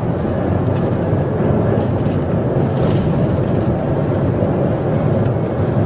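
Steady engine and road noise of a car driving at high speed, heard without letup.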